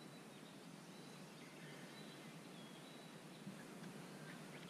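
Near silence: faint open-air lake ambience with thin, high bird calls recurring in the distance, and one soft tap about three and a half seconds in.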